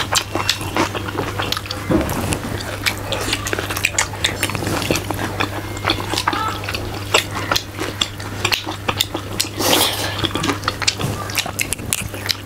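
Close-miked wet chewing and lip-smacking: a dense run of quick moist clicks from mouths eating pork rib and rice by hand, over a steady low hum.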